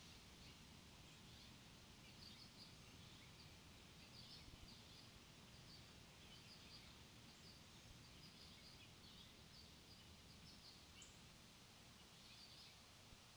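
Faint outdoor ambience with small birds chirping: many short, high chirps scattered throughout over a soft low background rumble.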